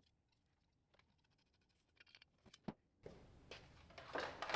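Faint, scattered clicks and taps of small parts being handled. About three seconds in, a room's background hiss comes in, with a louder scraping rustle near the end.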